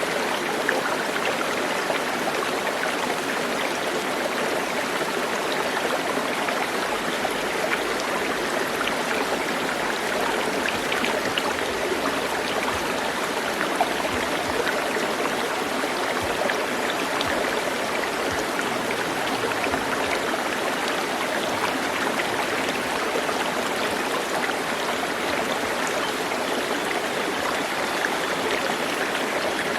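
A stream flowing steadily, an even rush of water with faint small splashes and no break.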